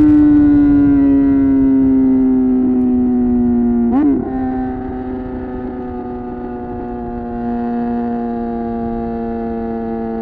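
Suzuki GSX-R 750 inline-four engine running under steady throttle, its pitch falling slowly as it slows. There is a brief blip about four seconds in, after which it runs steady and a little quieter.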